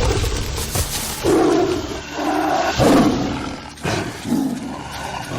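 A tiger calling in a series of short, low calls, about four of them, each lasting under a second.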